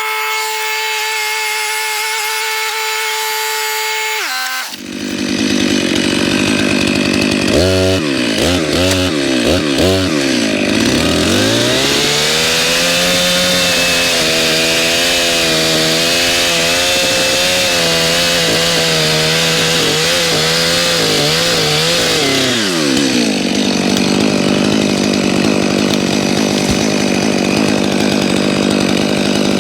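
Two-stroke chainsaw running loud, then cutting into wood from about 7 seconds in. The engine pitch sags and recovers under load until about 23 seconds, then it settles back to a steady high rev.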